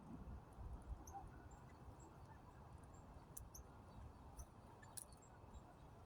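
Faint, short, high chirps from small birds every second or so over a low, quiet rumble, with a couple of sharp clicks.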